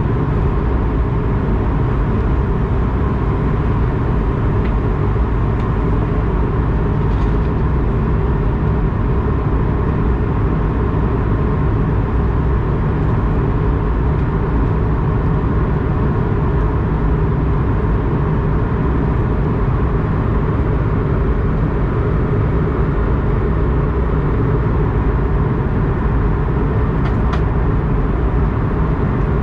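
Airbus A220-100 jet engines running steadily, a dense low rumble that holds at an even level without rising or falling.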